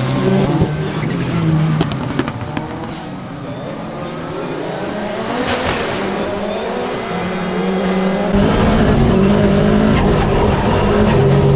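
Rally car engine at racing revs, its pitch rising and falling, with tyres sliding and squealing on the loose surface and a few sharp clicks in the first few seconds. About eight seconds in the sound jumps suddenly to a louder, fuller engine note.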